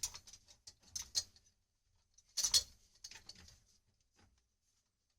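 Light clicks and knocks of plumbing pipe fittings, an elbow and a stop tap, being handled and set in position on the pipe, with one louder knock about halfway through.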